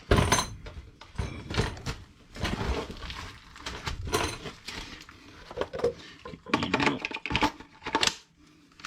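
Metal drill bits clinking and rattling as they are sorted through in their case: irregular short clatters and knocks.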